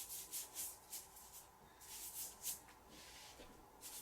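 Ink brush strokes on paper: a run of short, soft swishes and scrubs at an uneven pace, some a little longer than others.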